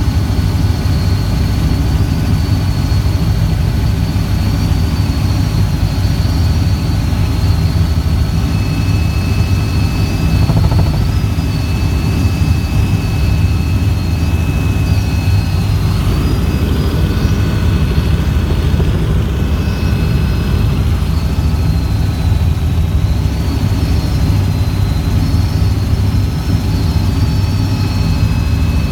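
Helicopter in flight: a steady, loud engine and rotor drone with a constant high turbine whine above it.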